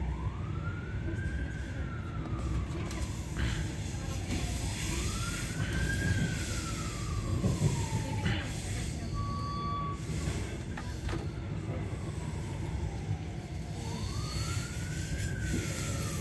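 A siren wailing, its pitch rising quickly and falling slowly in repeated cycles of about four to five seconds, over the steady low rumble of a moving train. A short beep sounds about halfway through.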